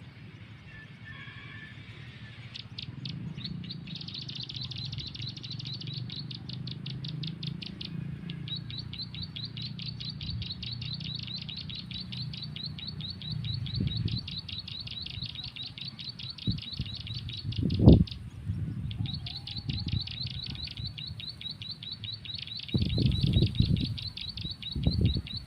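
A rapid, evenly paced trill of high bird chirps repeating in long runs with short breaks, typical of a bird-call lure recording played from a phone. Under it there is a low rumble, and heavy thumps come near the end.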